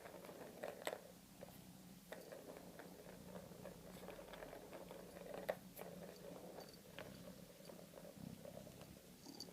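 Domestic cat purring steadily and faintly, with scattered soft clicks and taps, the sharpest about a second in and about five and a half seconds in.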